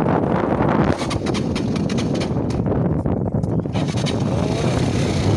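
A motor vehicle running steadily, with wind rushing over the microphone.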